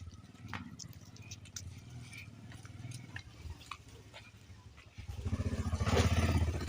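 A vehicle engine running with a low, even pulse, getting much louder about five seconds in, with scattered light clicks over it.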